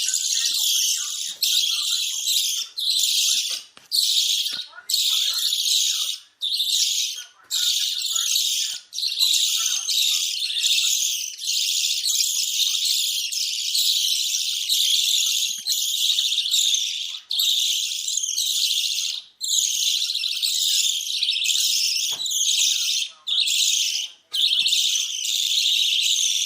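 A flock of budgerigars chattering and warbling in a dense, high-pitched stream, broken by short pauses every second or two: budgie breeding chatter of the kind played to bring hens into breeding condition.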